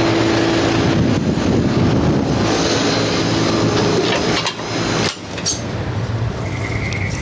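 Lennox outdoor AC condensing unit running, with refrigerant hissing out of a leak in the system. The loudness dips briefly about four and a half seconds in and again at five seconds, followed by a few short clicks.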